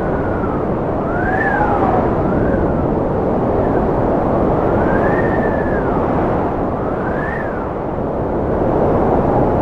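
Strong cold wind blowing in a steady rush, with whistling howls that rise and fall in pitch every second or so.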